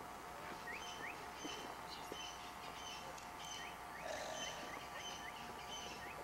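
Birds calling in the bush: repeated short upward-sweeping chirps and short high two-note calls, over a faint steady hum.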